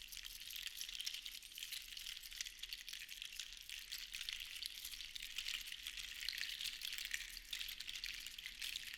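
Seashells rattling against one another in a continuous dense clatter of tiny clicks, swelling a little in the middle and again near the end.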